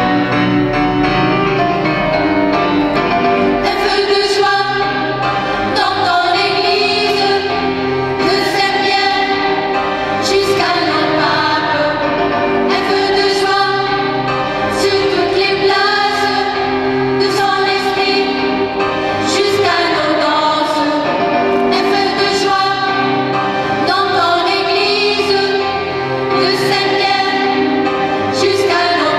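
A choir of mainly female voices singing a song with instrumental accompaniment, steady low notes under the voices and a regular beat.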